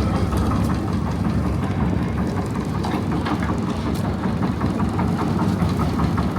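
Engine idling steadily, a dense low rumble with a fast, even knocking.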